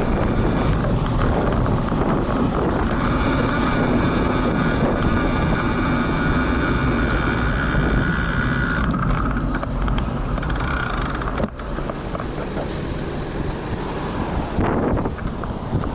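Road traffic heard over wind buffeting a camera's built-in microphone, with a heavy vehicle passing close and a steady whine from about three to eight seconds in. A thin high squeal sounds twice briefly around nine to eleven seconds in.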